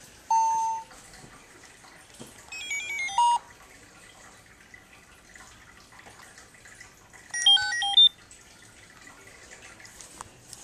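Electronic beeps: one steady beep lasting about half a second, then a quick run of short stepped tones around three seconds in, and a second quick run of stepped tones near the end.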